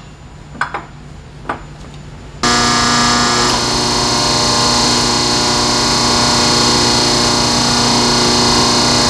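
A powered exhaust tube bender's motor switches on about two seconds in and runs with a loud, steady hum while bending the exhaust pipe, its pitch sagging slightly under load. A few light clicks come before it.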